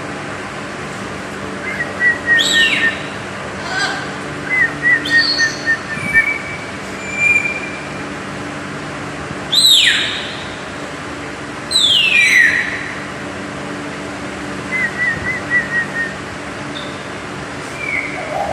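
A parrot calling in scattered bouts: short warbling trills and chirps, and three loud whistles that sweep sharply downward in pitch, the loudest about ten and twelve seconds in. A steady low hum runs underneath.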